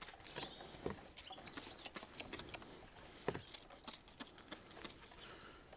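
Hand trigger sprayer squirting paraffin onto a motorcycle chain: quiet, irregular short spritzes and clicks, with faint bird chirps in the background.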